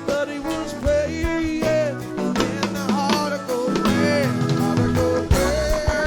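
Band music: guitar and drum kit playing, with a melody line bending in pitch over them.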